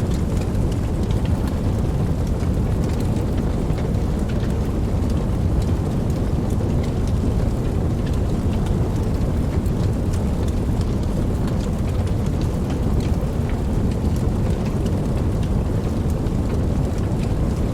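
Steady rain falling: a dense, even wash of rain with a deep low rumble underneath and scattered sharp drop ticks on top.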